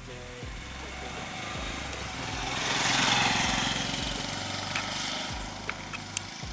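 Motorcycle engine running steadily under way, with a rushing noise that swells about halfway through and then eases off.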